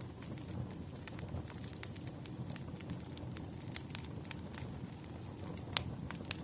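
Wood fire burning steadily, logs crackling and popping irregularly over a low rumble of flame, with one sharper pop near the end.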